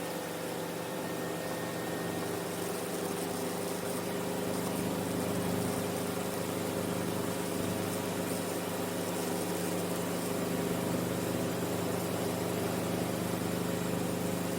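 Enstrom F28F helicopter's four-cylinder piston engine and rotor running steadily: an even drone made of several steady tones, getting slightly louder a few seconds in.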